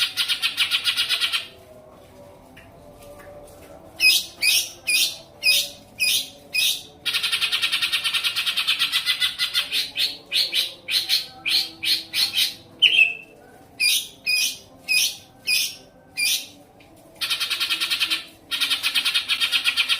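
A small songbird's call played as a masteran song-tutor recording. Long buzzy rattling trills lasting a couple of seconds alternate with runs of short sharp chirps, about two a second.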